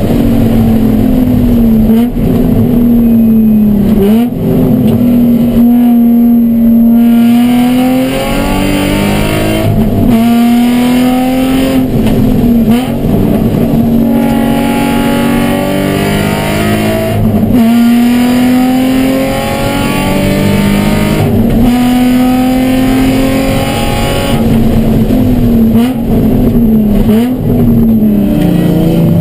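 Nissan 350Z's V6 engine under racing load, heard from inside the cabin, the revs climbing and dropping sharply again and again through gear changes every few seconds. The car is being short-shifted because of an ECU problem that leaves it down on power.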